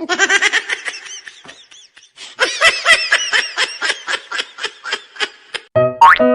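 High-pitched laughter in quick rhythmic bursts, in two runs with a short break after about a second and a half. Music starts near the end.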